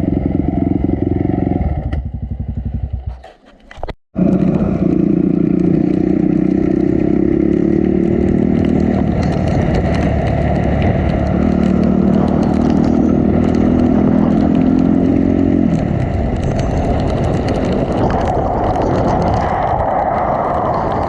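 Honda CRF250 dirt bike's single-cylinder four-stroke engine running on a trail, holding steady revs. The sound cuts out briefly about four seconds in, then comes back, and turns rougher and noisier near the end.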